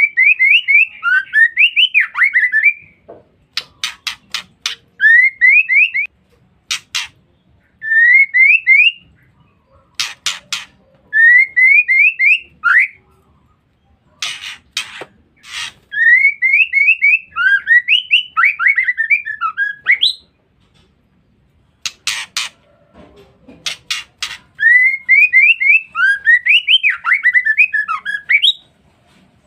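Female white-rumped shama calling in repeated phrases of quick, rising whistled notes run together into a chattering trill, the ngeriwik call. About six phrases come and go, separated by pauses with short, harsh, noisy bursts.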